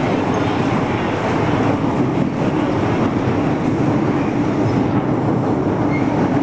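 MTR M-Train electric metro car running between stations, a steady rumble of wheels on rail and traction noise heard from inside the carriage.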